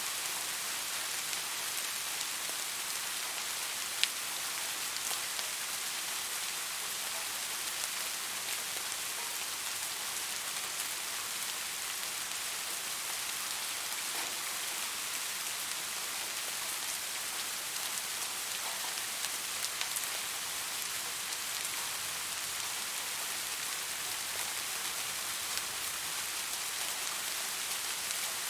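Steady soft rain falling on a surface, an even patter with scattered individual drops, one sharper drop about four seconds in.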